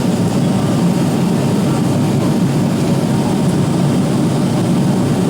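Steady cabin noise of an Avro RJ85 airliner in flight: a constant low rumble of engine and airflow noise heard from inside the passenger cabin.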